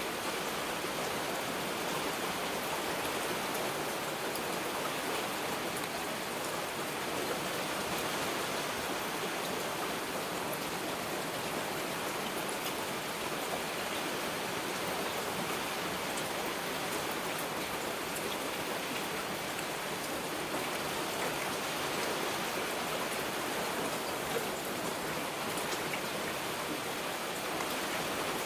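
Heavy rain falling steadily, a constant even hiss with scattered individual drop ticks.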